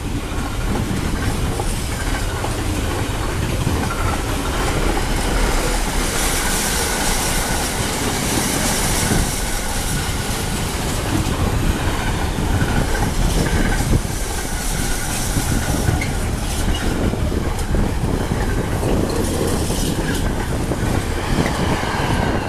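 A train passing close by, its wheels clattering over the rails with a steady loud rumble for over twenty seconds.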